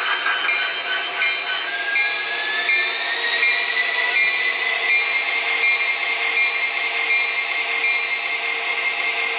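HO-scale MTH SD70ACe model locomotive's sound system playing diesel locomotive sounds through its small onboard speaker, part of its PFA sound sequence. A steady engine sound rises in pitch between about two and five seconds in, with a faint repeating sound about twice a second.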